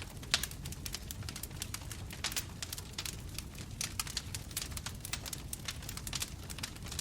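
Bonfire burning: a steady low rumble of flames with frequent, irregular sharp crackles and pops of burning wood, one louder pop about a third of a second in.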